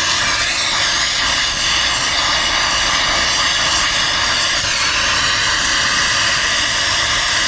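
Brazing torch flame hissing steadily as it heats a copper refrigerant line for brazing.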